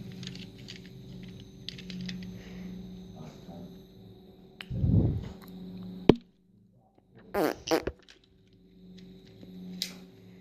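Toy car being handled close to the microphone: a low rough rumbling burst about five seconds in, a sharp click a second later, then short rustling scrapes.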